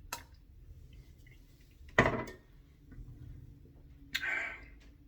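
Glass beer bottle being handled on a tabletop: a light click, a solid knock about two seconds in, and a short hiss about four seconds in.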